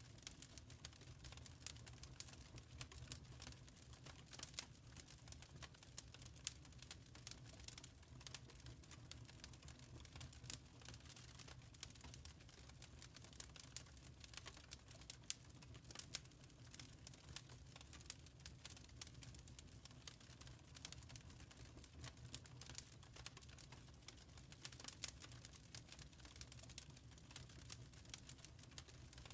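Wood fire crackling in a fireplace: quiet, irregular small snaps and pops over a low steady rumble.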